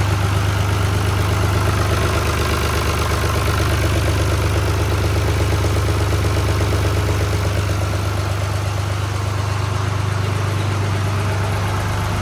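Long 360 tractor's diesel engine idling steadily, running smoothly after its fuel filters were changed and the air was bled from the fuel system.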